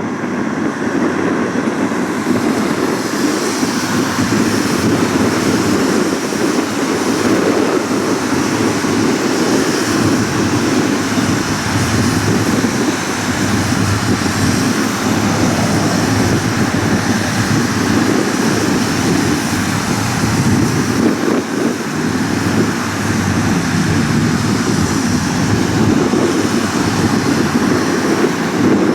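Boeing 787-9's Rolls-Royce Trent 1000 jet engines running as the airliner taxis after landing: a steady, unbroken rush of engine noise.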